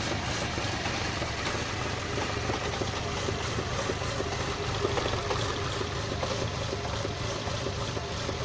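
Citroën Berlingo 1.4-litre 75 hp petrol engine idling with small irregular surges in level. This is the rough, shaking idle the owner is trying to diagnose.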